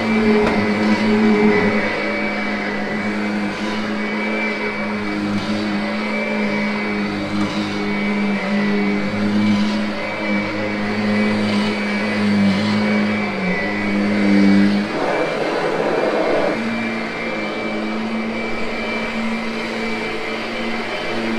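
Kirby upright vacuum running steadily while it grooms carpet, its motor holding a steady hum. About fifteen seconds in, the tone briefly turns rougher for a second or so before the steady hum returns.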